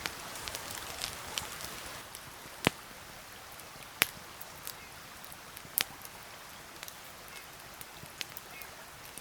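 Raindrops pattering, a dense patter for about two seconds that thins to scattered single drops, with three louder taps.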